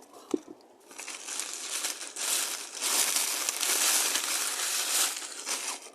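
Package of wheat flour crinkling and rustling as it is handled, continuous from about a second in until just before the end, after a single light tap near the start.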